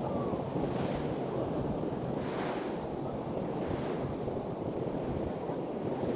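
Pacific Ocean surf washing onto the shore in a steady rush of noise that swells softly a few times, with wind buffeting the microphone.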